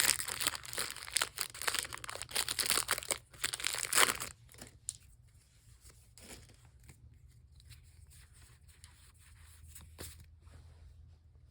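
Foil Pokémon booster pack wrapper being torn open and crinkled for about four seconds, stopping abruptly. After that, only faint rustling as the cards are handled.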